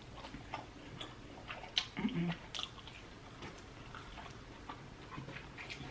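Close-miked chewing of seafood boil food, with many small wet clicks and smacks of the mouth. A brief low hum about two seconds in.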